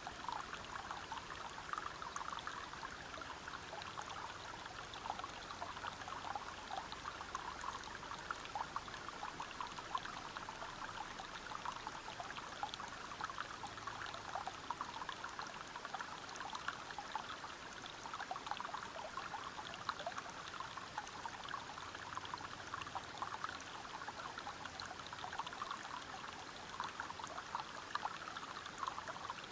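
Forest waterfall and river water flowing over rocks: a steady rush dense with small splashes.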